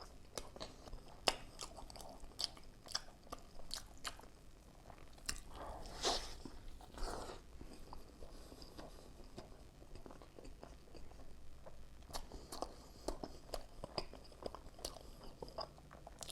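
Close-miked chewing and biting of a cheeseburger: wet mouth clicks and soft crunches, with a couple of longer smacking bites about six and seven seconds in.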